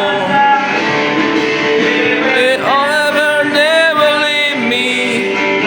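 Hymn singing with strummed acoustic guitar accompaniment; voices hold long, wavering notes between lines of the verse.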